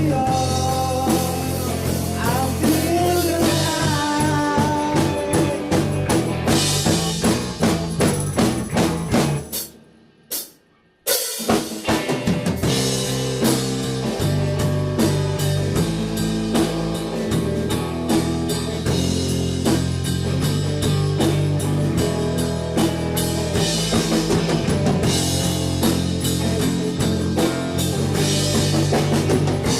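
Rock band playing with a drum kit prominent. The music stops abruptly about a third of the way in, there is a second or so of near silence, and then drums and bass come back in with a steady beat.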